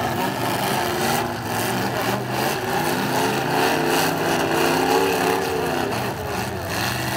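Demolition derby cars' engines revving hard as the cars push against each other, their pitch wavering up and down throughout.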